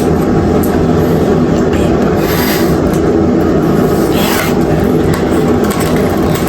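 Room air conditioner running with a steady hum, and two short rustling scrapes about two and a half and four seconds in.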